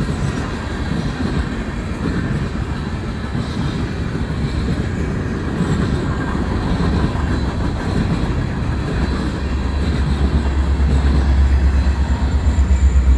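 A freight train's cars roll past with steady wheel-on-rail noise and clickety-clack over the rail joints. From about nine seconds in, a deep pulsing diesel rumble builds and is loudest near the end as the rear BNSF EMD SD70MAC distributed-power locomotive passes.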